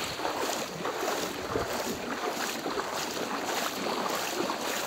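Floodwater sloshing and splashing around legs as people wade through it, a steady wash of many small irregular splashes.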